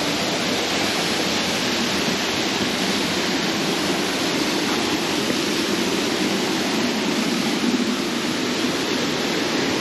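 Small waterfall on a stream, water falling and rushing in a steady, even rush.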